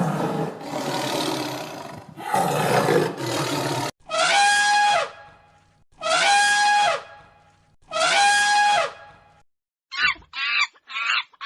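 A sequence of different animal calls: two rough, rasping roars, then three identical pitched calls about two seconds apart, each falling away at its end, and a quick run of short chirps near the end.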